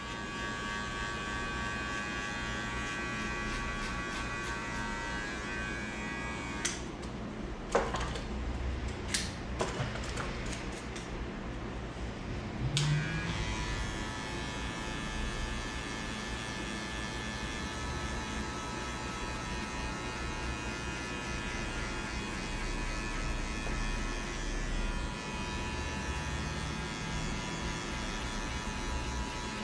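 Electric hair clippers running with a steady buzzing whine. About seven seconds in they stop, and for roughly six seconds there are a few sharp clicks and taps. Then the clippers start up again and run steadily.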